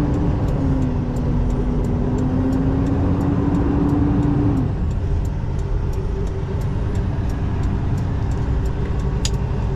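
Semi-truck diesel engine running under way, a steady low rumble with a droning tone that cuts off about four and a half seconds in.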